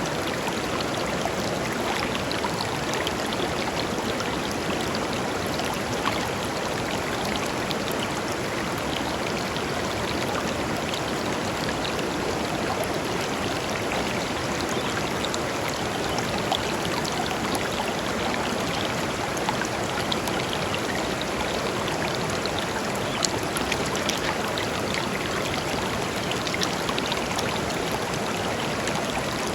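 A clear river flowing steadily over stones: an even rush of water with small splashes and bubbles scattered through it.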